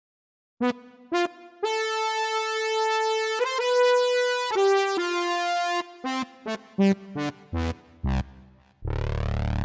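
ReFx Nexus synthesizer presets in the 80s Italo disco style, played one after another. After half a second of silence come two short notes, a held note that changes pitch twice, and a run of short staccato notes stepping down in pitch. Near the end a loud, buzzy, bass-heavy synth tone starts.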